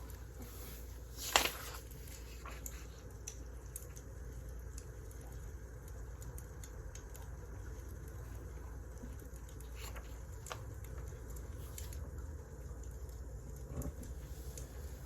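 Wood fire crackling, with a steady low rumble and scattered sharp pops; one louder pop comes about a second and a half in.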